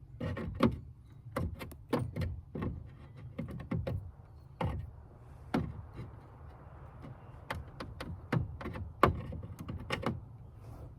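An irregular series of sharp knocks and clicks, a few each second with short pauses, over a low steady hum, from hand work on parts during the install.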